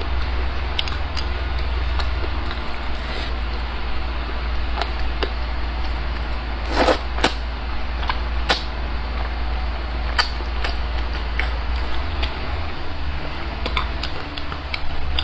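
Quiet eating sounds of a noodle meal: small clicks and taps of chopsticks and bowl, with one louder rustling, slurping-like sound about seven seconds in, over a steady low hum.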